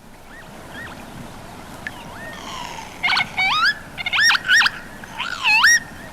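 Northern lapwings giving their wild spring display cries: a few faint slurred rising 'pee-wit' whistles, then from about three seconds in a run of loud, rising, warbling calls.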